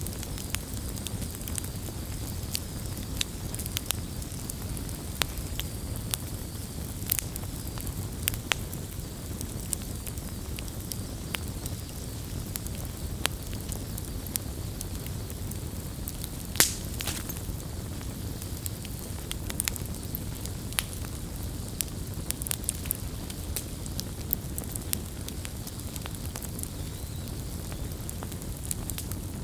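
Wood campfire burning: a steady low rumble of flames with scattered sharp crackles and pops, one louder pop about halfway through.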